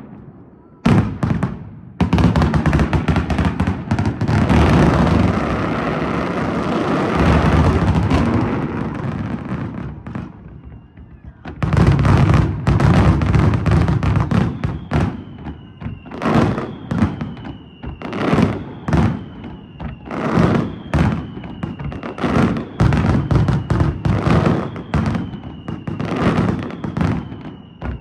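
Daytime fireworks display: sharp shell bursts, then several seconds of a dense, continuous barrage of booms and crackle. From about halfway, reports come about once a second, with short falling whistles running alongside.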